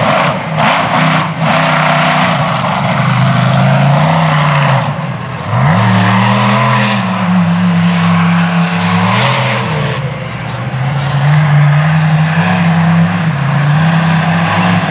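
Ramminator monster truck's supercharged V8 revving hard through a freestyle run, its pitch climbing sharply about five and a half seconds in, holding, dropping off near ten seconds, then rising again.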